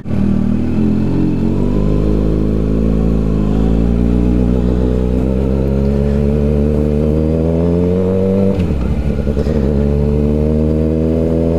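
2013 Kawasaki ZX-6R 636's inline-four engine breathing through a full M4 aftermarket exhaust, pulling away at low speed. The revs climb steadily for several seconds, fall briefly about eight and a half seconds in, then climb again.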